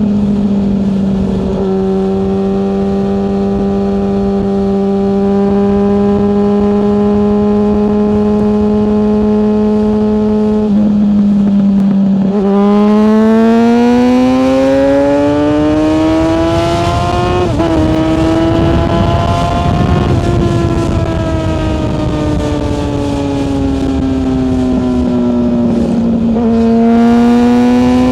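Yamaha FZ6S motorcycle's 600cc inline-four engine under way. It holds a steady pitch for about the first ten seconds, then climbs as the bike accelerates, with a brief dip at a gear change. It falls away as the bike slows, and climbs again near the end, with wind rush growing at the higher speeds.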